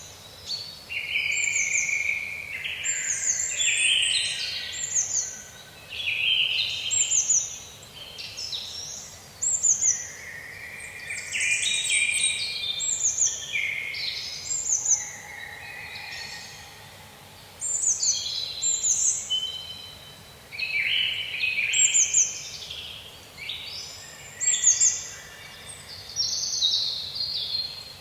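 Songbirds singing, with short phrases of high, mostly falling notes repeating every second or two over a faint steady hiss.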